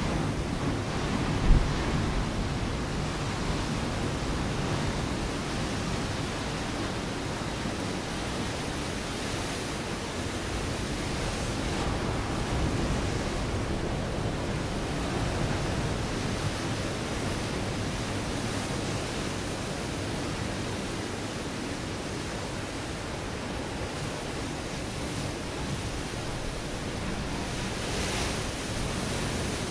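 Ocean waves breaking against a rocky shore: a steady rush of surf that swells and ebbs. A brief low thump about a second and a half in.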